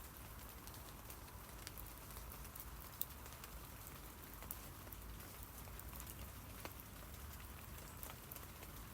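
Rain falling on tree leaves: a faint, steady patter of many small drop taps, with one sharper tap about three seconds in.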